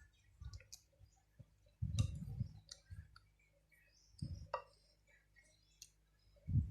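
Close-up eating sounds: scattered small clicks and smacks of chewing instant noodles, with a few soft low thuds.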